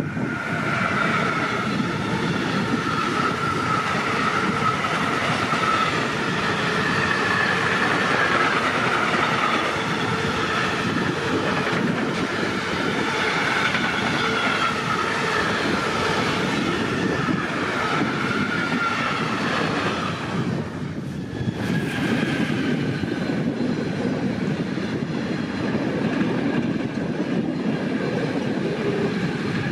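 A train running past on the rails: a steady rumble of wheels on track, with a wavering high-pitched tone riding over it. The sound dips briefly about two-thirds of the way through.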